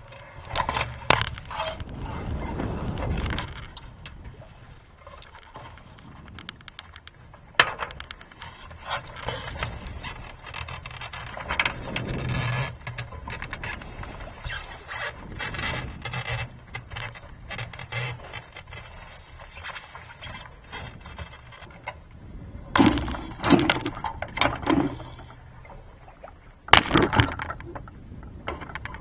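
Irregular knocks, scrapes and clatter of gear aboard a small sailing yacht, with one sharp knock a few seconds in and two louder bursts of knocking near the end.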